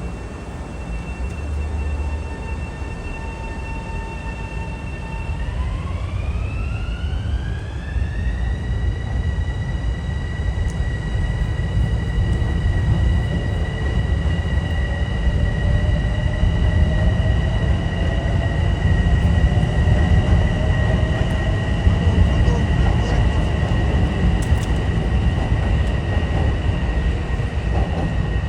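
Electric commuter train accelerating, over a heavy rumble of wheels on rail. Its motor whine holds a steady pitch, then rises over about three seconds and holds at the higher pitch. A fainter tone climbs slowly later on.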